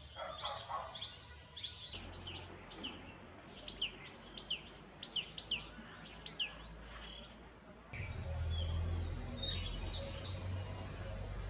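Garden birds calling: a run of short, sharp, high chirps repeated about twice a second, then after a cut a different bird's high whistled notes over a low background rumble.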